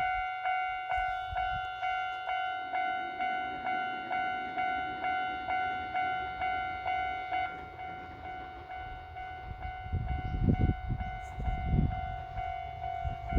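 Railway level-crossing warning bell ringing steadily, about two strokes a second, fading somewhat about halfway through. Low rumbling builds over the last few seconds.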